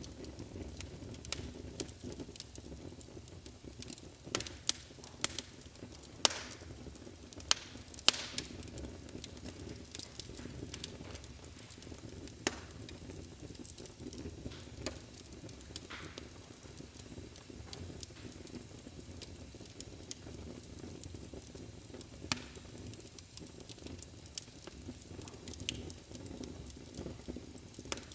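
Wood fire burning in a fireplace: a steady low rumble and hiss of the flames with irregular sharp crackles and pops.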